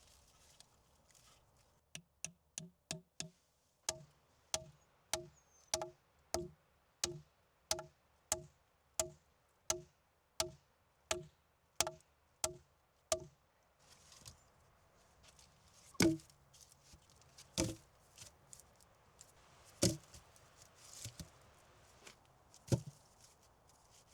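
Wood being chopped by hand: a run of about twenty sharp, ringing strikes at roughly one and a half a second, then four heavier blows a couple of seconds apart.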